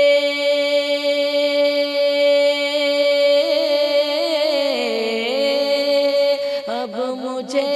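A male naat singer holds one long sung note, with a wavering, ornamented run in the middle that dips in pitch, before settling back onto the note.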